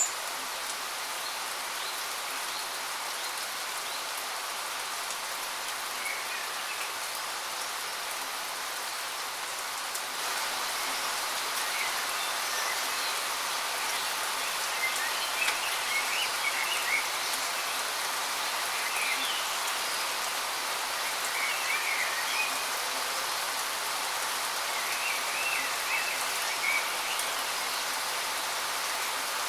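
Steady rush of falling water from a waterfall, with small birds chirping over it; the water grows slightly louder about ten seconds in and the chirps come more often in the second half.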